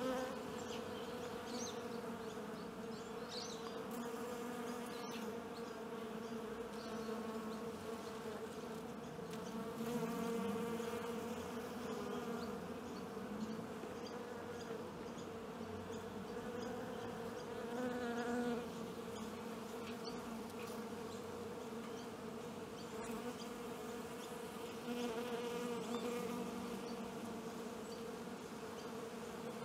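Many honeybees buzzing together: a steady droning hum with a low tone and a higher one that waver in pitch, swelling louder about a third of the way in, again a little past halfway, and near the end.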